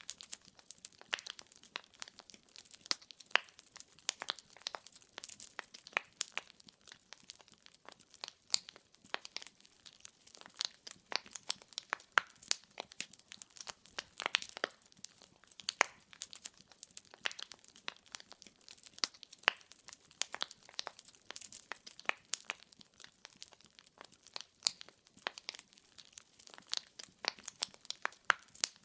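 Wood fire in a fireplace crackling: logs burning, with dense irregular pops and snaps over a faint hiss.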